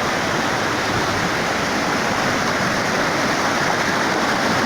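Loud, steady rushing of a waterfall and fast river in flood, a continuous wash of falling water with no breaks. The river is running so high that the waterfall is drowned.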